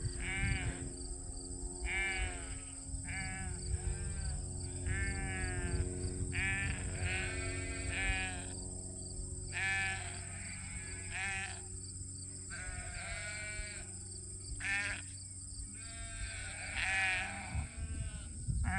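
Sheep bleating over and over: a string of wavering calls about a second apart, some overlapping one another.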